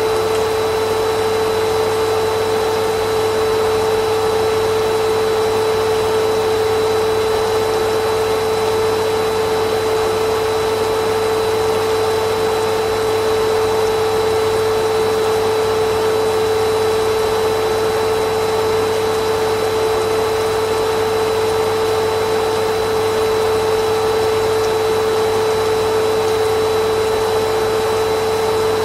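Vacuum cleaner running steadily, a constant motor hum with one strong pitch over a rush of air.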